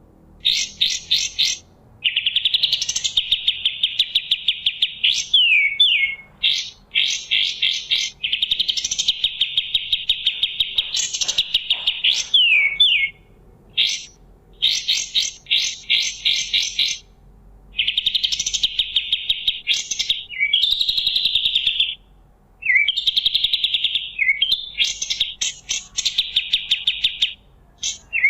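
White-shouldered triller (kapas tembak) singing: fast trills of rapidly repeated notes, each phrase lasting one to three seconds, broken by short gaps and quick downward-slurred notes.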